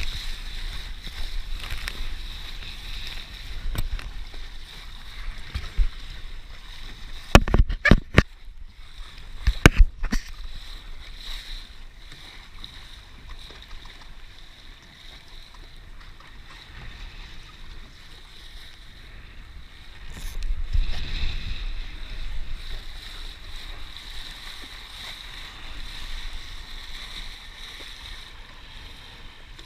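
Wind buffeting the microphone and water rushing along the hull of a Laser sailing dinghy under way. There are several sharp knocks in quick succession about eight and ten seconds in, and a louder gust of wind and water about two-thirds of the way through.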